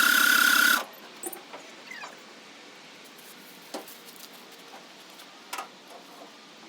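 Cold-start attempt on a 1947 Chevrolet Stylemaster: a loud steady mechanical sound with a held whine cuts off suddenly under a second in. It is followed by quiet with a few faint clicks.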